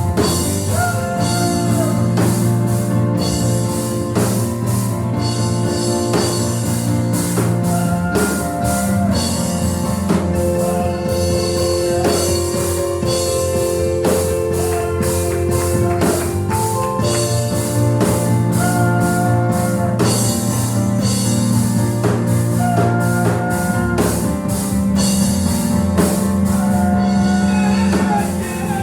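Live church band playing worship music, with drum kit, guitar and held keyboard or organ notes.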